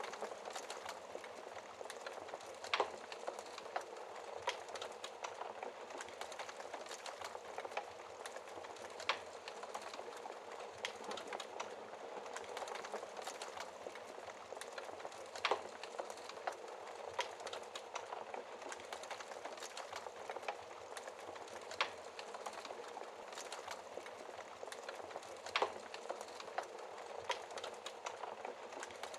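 Fire crackling in a fireplace: a steady hiss of burning with irregular sharp pops, a handful of them louder than the rest.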